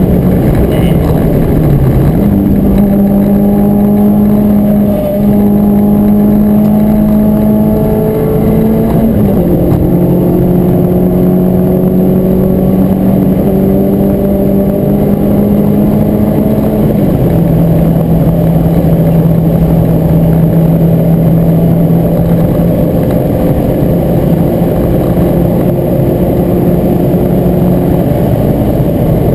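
Renault Clio 172 Cup's 2.0-litre four-cylinder engine heard from inside the cabin, running hard at high revs with road and wind noise. The revs dip and recover about two seconds in, then step down at gear changes about nine and seventeen seconds in, climbing slowly in between.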